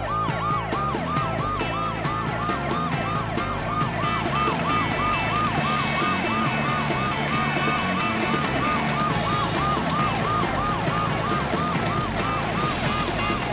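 Ambulance siren sound effect wailing in a fast, evenly repeating rise-and-fall, about three cycles a second, over background music.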